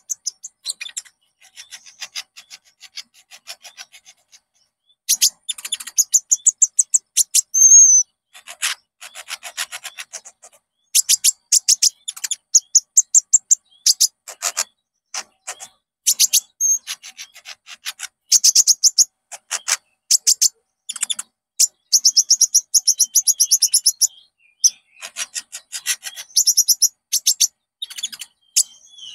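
Recorded song of a konin songbird: rapid chattering trills of sharp, high clicking notes, delivered in repeated bursts of a second or two with short pauses between them.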